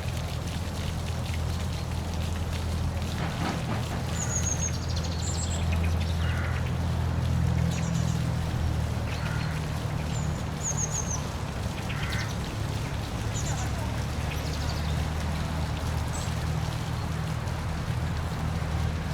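Steady low rush of a park waterfall, with short high bird chirps and a few lower calls every few seconds.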